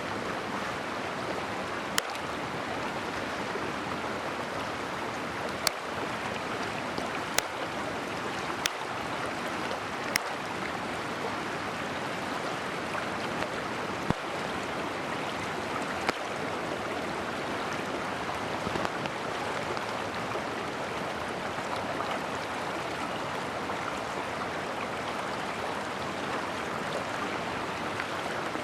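Mountain stream rushing steadily, with a few sharp clicks scattered through the first half.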